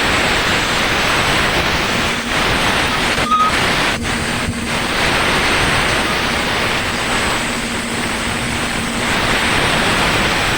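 Diesel engine of a Sany motor grader running, a loud, steady rushing noise with a faint steady hum through the middle.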